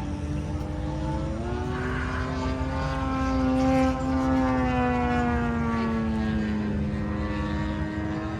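A radio-controlled model airplane's motor and propeller whining in flight. The pitch rises a little over a second in, is loudest around the middle, then slides slowly down.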